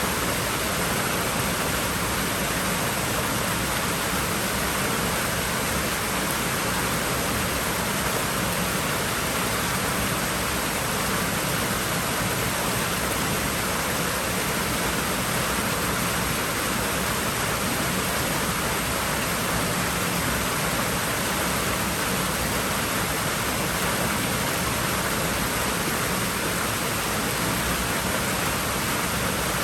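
Pool water rushing and splashing steadily, an even, unchanging noise like a small waterfall.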